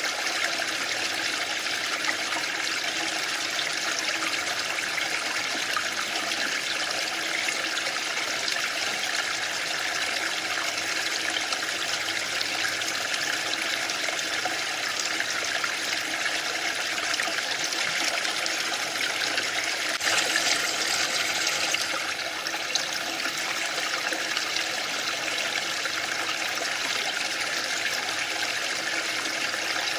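Waterfall: a steady rush of falling water, briefly louder and brighter about two-thirds of the way through.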